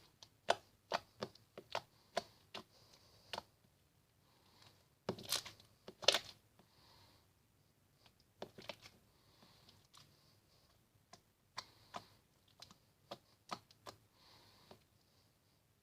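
Clear slime being squeezed and stretched by hand, making faint, irregular sticky clicks and small pops, with a louder cluster of pops about five to six seconds in.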